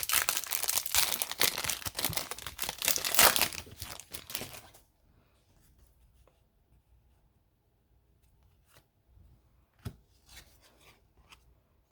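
Hockey card pack wrapper being torn open and crinkled for about five seconds, then near quiet with a few faint taps.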